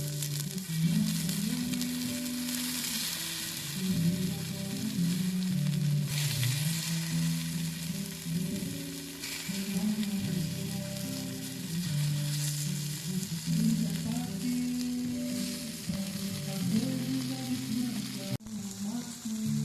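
Meat frying and sizzling in a pan, a dense steady hiss, with background music carrying a low bass line. Both briefly drop out near the end.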